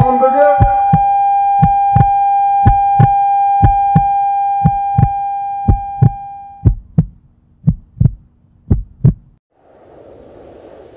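Heartbeat sound effect, a double thump about once a second, under a steady high ringing tone. The tone fades out about six or seven seconds in, the heartbeat stops about nine seconds in, and faint outdoor wind noise follows.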